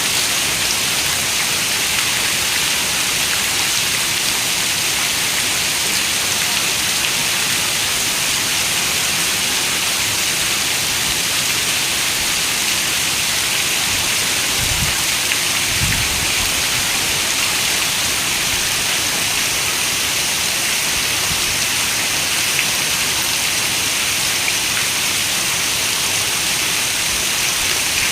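Steady rain falling: a dense, even hiss. About halfway through come two brief low thumps, roughly a second and a half apart.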